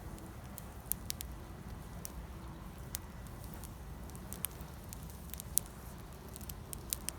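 Wood campfire crackling, with irregular sharp pops and snaps scattered throughout over a steady low rush.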